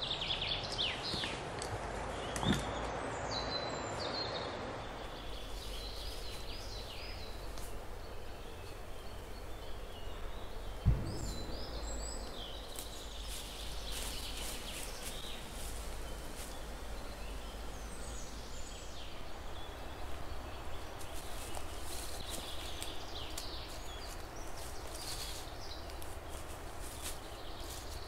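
Woodland birds chirping and singing on and off over a low, steady background rumble. Rustling in the first few seconds, a light thud about two and a half seconds in, and a single sharp knock, the loudest sound, about eleven seconds in.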